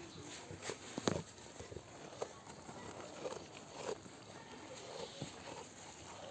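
Goats moving about, with scattered hoof knocks and shuffling and one sharp knock about a second in.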